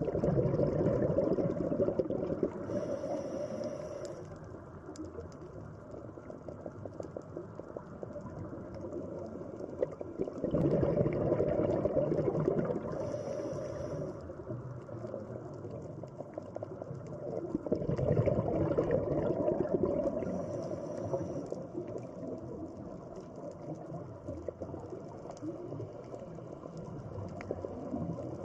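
Underwater ambience: a low, bubbling water rumble that swells and fades three times, roughly every eight to ten seconds, with a faint high tone at the top of each swell.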